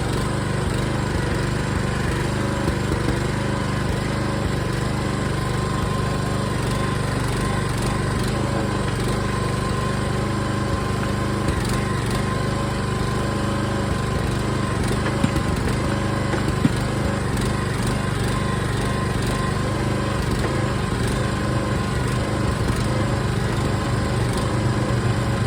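Small gas engine of a Harbor Freight backhoe running steadily, with two short sharp knocks around the middle.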